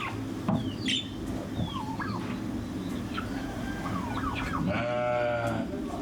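One long bleat from a sheep or goat about five seconds in, over a steady low hum, with short high chirps scattered throughout.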